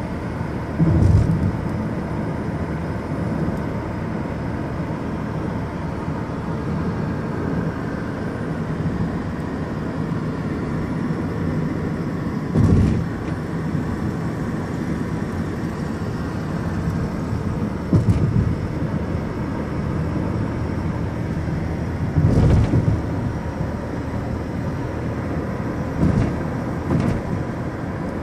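Steady road and engine noise of a car being driven, with several brief louder bursts spread through it.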